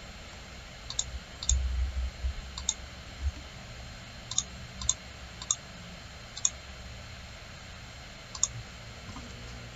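Computer mouse clicks: about eight short, sharp single clicks at irregular intervals over a steady hiss, with a few low bumps, the loudest about a second and a half in.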